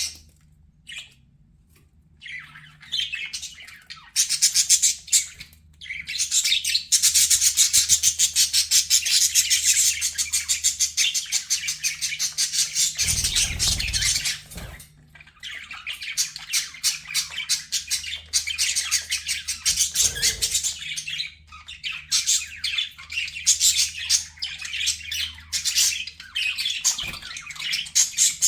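Budgerigars chattering and warbling in dense runs of quick, high chirps, with short pauses about a second in and again around the middle.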